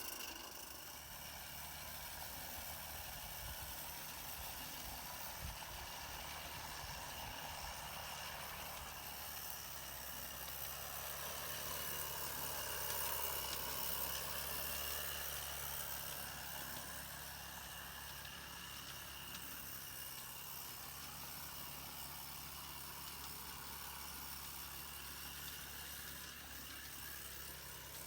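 Steam locomotive running on a mountain railway: a steady hiss over a low hum, growing louder toward the middle and then easing off.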